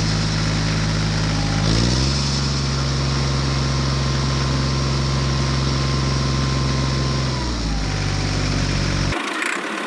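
Small engine running at a steady speed, rising to a higher speed about two seconds in, settling back down near the end and then cutting off suddenly.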